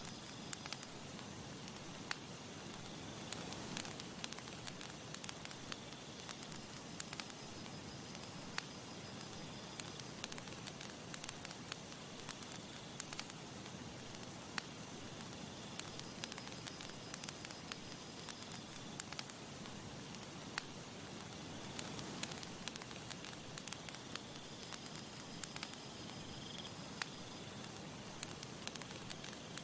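Campfire crackling: many sharp irregular pops and snaps over a steady soft hiss of burning wood.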